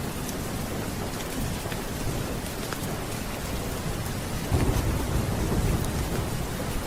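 Steady heavy rain, with a low rumble of thunder swelling about four and a half seconds in.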